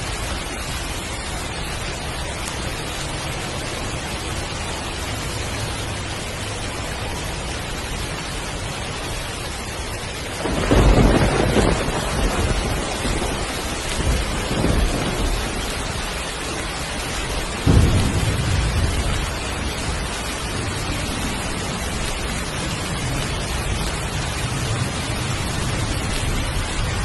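Heavy rain falling steadily. Thunder breaks in suddenly about ten seconds in and rumbles for several seconds, with a second sharp crack a few seconds later.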